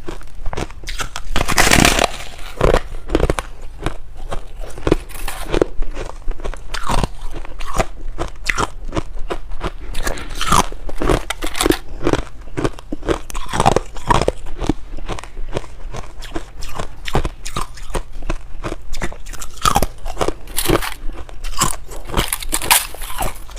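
White freezer frost being bitten and chewed close to the microphone: a continuous run of sharp, icy crunches, several a second, with a louder, longer crunch near the start.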